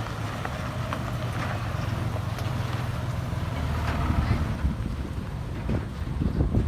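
Diesel engine of heavy earthmoving machinery running steadily, its pitch dropping lower about four seconds in, with scattered metallic clanks and knocks.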